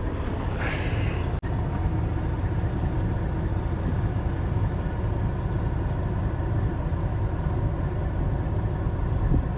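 Diesel semi-truck engine idling steadily, a low rumble.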